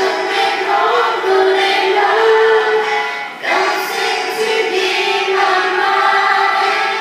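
A group of young women singing a Thai pop song together, with a brief pause between phrases about halfway through.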